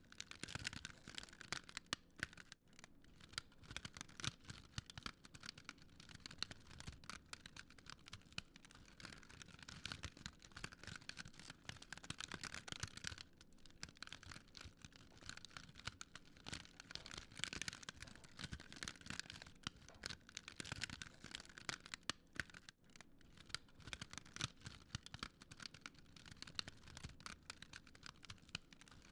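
Wood fire crackling: a continuous run of small, irregular crackles, with now and then a sharper pop.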